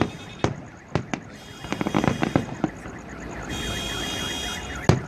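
Aerial fireworks bursting in a display: about half a dozen sharp bangs, irregularly spaced, the last and loudest near the end. Between them a pulsing electronic tone cycles on and off twice.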